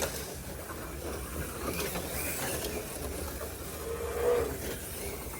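Slot cars running laps on the track: a steady mechanical whir and rattle from the small cars, with a few sharp clicks.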